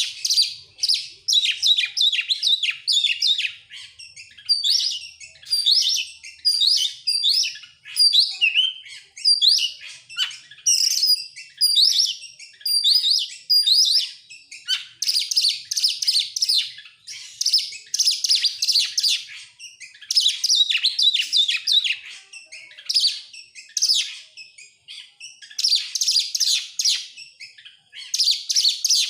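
Oriental magpie-robin (kacer) singing loud, rapid, varied song phrases one after another with short pauses between them. This is the sort of song used as a lure to set off a caged magpie-robin.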